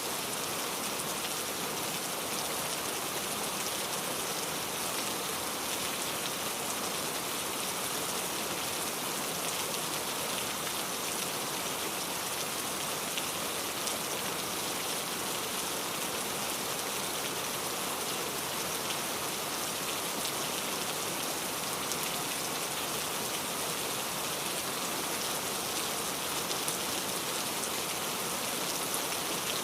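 Steady rain falling, a constant hiss with fine drop patter.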